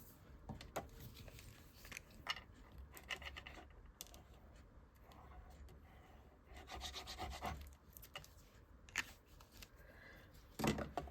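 Paper being rubbed and pressed down by hand onto glued cardstock: short scattered scraping strokes and light taps, the loudest near the end.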